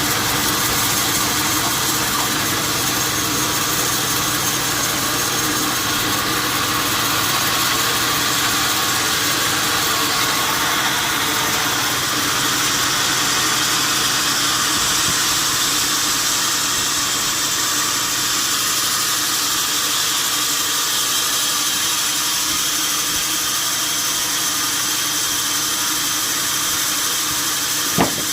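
Steady machine noise with a low hum under it, unchanging throughout, like an engine running; a single sharp click near the end.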